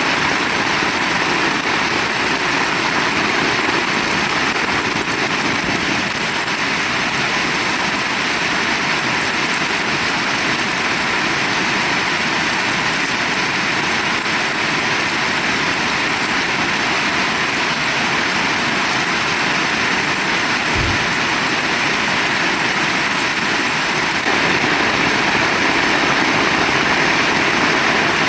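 Heavy rain falling, a steady, even hiss with no let-up. A single brief low thump about two-thirds of the way through.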